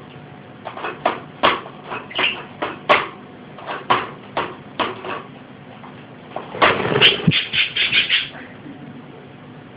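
Budgerigar chirping in short, sharp calls at an uneven pace, breaking into a quick run of chirps near the end.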